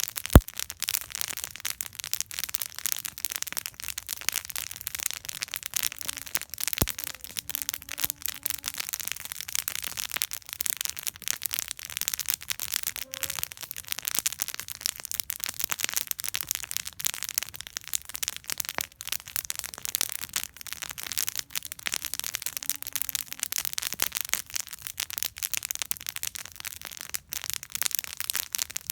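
Wood campfire burning with continuous dense crackling and sharp pops, one louder pop just after the start.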